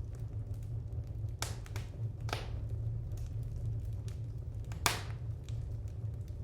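Wood fire crackling in a fireplace: a few sharp pops, the loudest about five seconds in, with fainter ticks between them over a steady low rumble.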